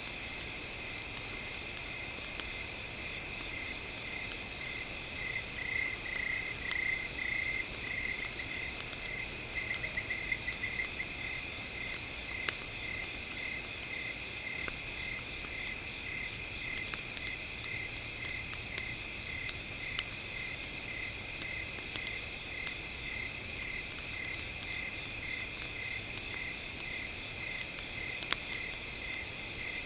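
Night-time insect chorus: a steady high-pitched trilling with a cricket-like chirp pulsing about one and a half times a second, running into quicker trills twice early on. Sparse sharp crackles and pops from a campfire sound now and then.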